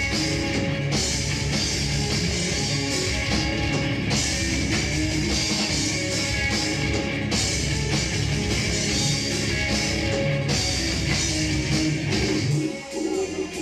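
Live rock band playing loudly, with drum kit and guitars. The music thins out briefly about a second before the end, then comes back in.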